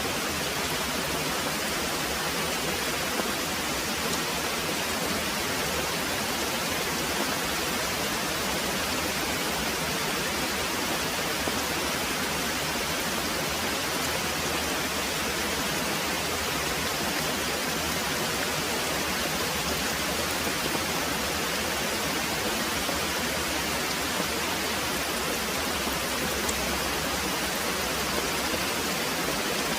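Very heavy rain pouring steadily, a dense even hiss with no let-up.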